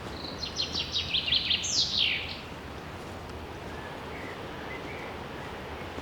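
A songbird sings one quick phrase of rapid high notes that ends in a few downward-sweeping notes, over steady background noise. A few faint chirps follow later.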